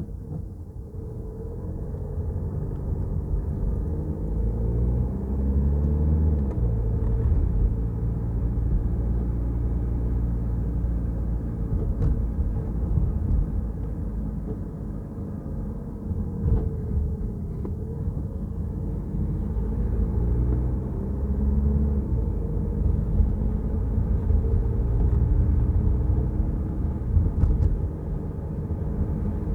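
A Peugeot Rifter's engine and road noise while driving. The engine note rises as the car accelerates and drops sharply at a gear change about six seconds in, then does the same again a little past twenty seconds.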